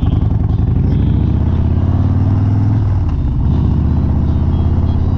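Harley-Davidson Sport Glide's Milwaukee-Eight V-twin running on the road, its pitch climbing over the first couple of seconds, dipping briefly about three seconds in, then holding steady.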